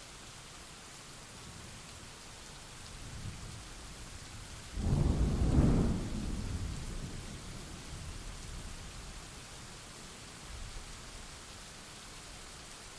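Steady rain falling, with thunder: a low rumble builds, then a loud crack about five seconds in that rolls away over the next few seconds.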